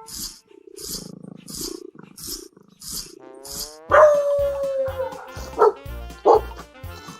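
Background music with a steady beat, and about four seconds in a dog's drawn-out call falling slightly in pitch, followed by short sharp barks.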